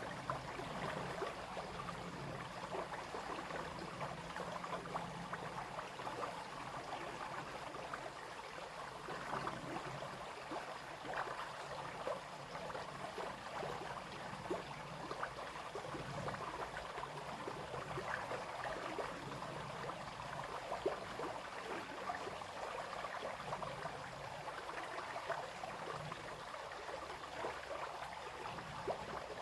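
Small brook flowing and babbling steadily over stones, a continuous splashing rush with many small trickles and droplets.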